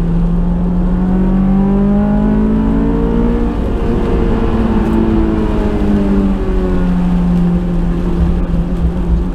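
Honda S2000's 2004 AP2 inline-four engine under way. Its pitch rises steadily as it pulls up through the revs for the first few seconds, then falls back as it eases off and runs steady near the end.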